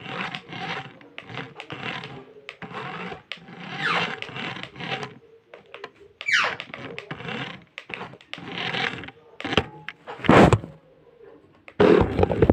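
Toy remote-control car running, its small electric motor whirring with clatter, and a few sharp knocks near the end.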